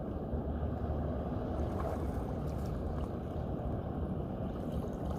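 Steady low rumble of wind buffeting the phone's microphone at the shore.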